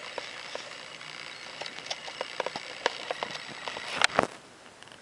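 Handling noise from a handheld camera and a small diecast model aircraft: scattered light clicks and taps, with a louder brief rub about four seconds in, after which the background hiss drops away.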